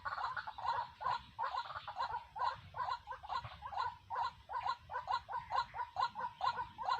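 A bird calling over and over in short notes at about three a second, steady and rhythmic.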